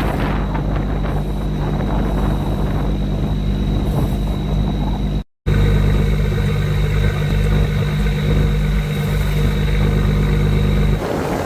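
Boat engine running at a steady pitch under wind and water noise. The sound drops out for a moment about five seconds in, and near the end the engine hum stops, leaving wind and water.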